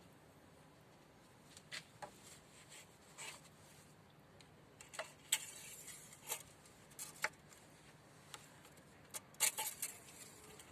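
Irregular light clicks and rustles of the engine oil dipstick being handled: pulled out, wiped and slid back in to check the oil level.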